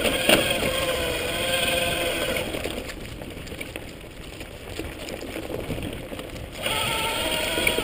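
Electric motor of a converted Schwinn S-25 e-bike whining steadily under power over rattling trail noise. The whine drops away about three seconds in and cuts back in abruptly near the end.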